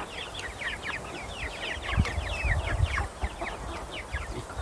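A flock of month-old meat chicks peeping constantly, many short high chirps that slide downward in pitch, several a second. A low rumble joins in about two seconds in.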